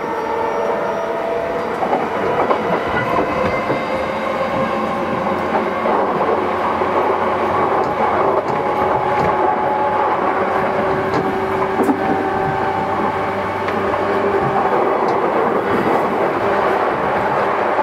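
Yokohama Line E233 series electric train running between stations, heard from inside the car: a steady rolling rumble with occasional clicks of the wheels over rail joints.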